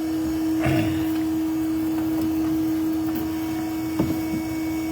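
Steady motor hum of a bee vacuum running, holding one unchanging pitch, with a single sharp knock about four seconds in.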